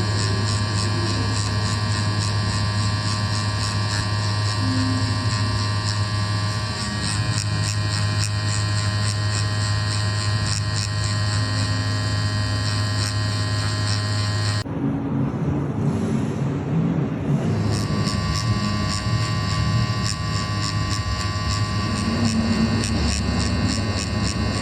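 Scalp micropigmentation tattoo machine buzzing steadily. Just past the middle it gives way for about three seconds to a rougher, noisier sound, then the buzz resumes.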